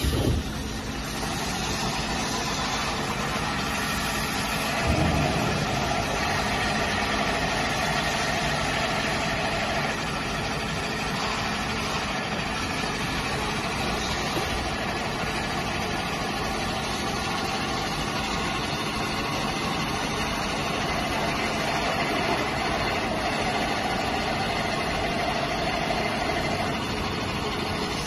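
Plastic pipe perforating machine running with a steady mechanical drone, a knock about five seconds in, and a louder stretch of higher-pitched working noise twice.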